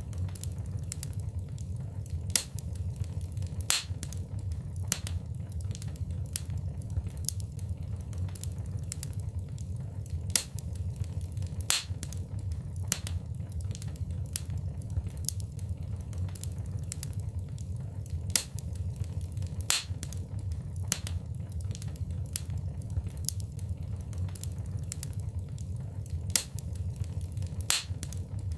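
Fire in a fireplace crackling: irregular sharp pops and snaps, a few standing out louder, over a steady low rumble of the flames.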